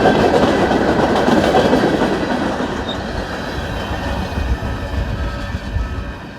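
A train's cars rolling past on the rails with a clattering rumble. It is loudest in the first couple of seconds and then eases off as the train moves away.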